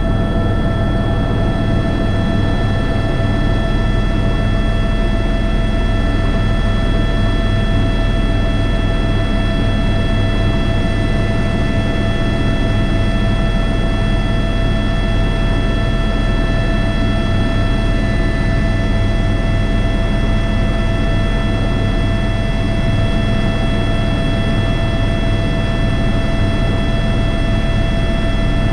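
Airbus H125 (AS350 B3) helicopter in flight, heard from inside the cockpit: its single turboshaft engine gives a steady high whine over a constant low rotor throb and rumble.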